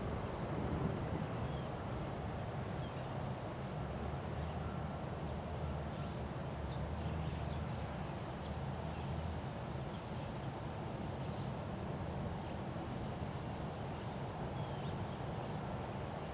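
Wind gusting hard and buffeting the microphone with a steady low rumble, while birds chirp faintly throughout.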